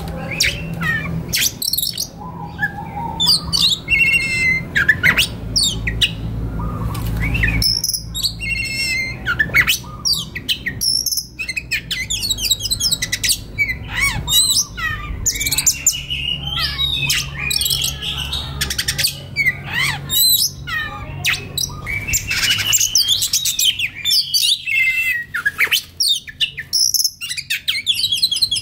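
Oriental magpie-robin (kacer) singing a fast, continuous, varied song of sweet whistles, chirps and rattling trills, with a steady low hum underneath.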